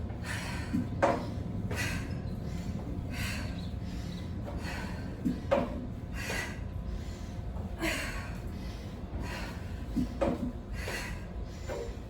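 A woman's heavy, rapid breathing during a high-intensity workout: short, hard breaths at a bit faster than one a second, with a few sharper, louder gasps among them.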